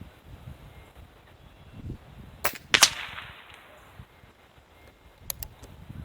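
Benjamin Cadence .22 PCP air rifle firing: two sharp cracks about a third of a second apart, the second the loudest with a short echo. A couple of faint clicks follow near the end.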